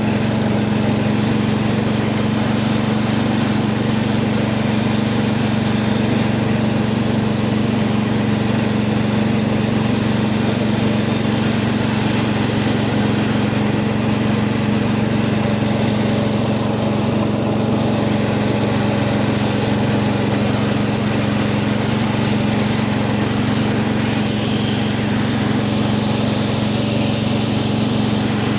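Cub Cadet 80 garden tractor's single-cylinder engine running steadily at an even speed, with no change in revs.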